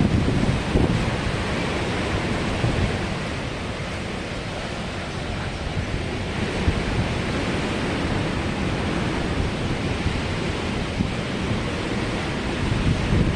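Strong wind blowing and buffeting the microphone: a loud, steady rush with a low rumble that eases slightly for a few seconds in the middle before gusting again near the end.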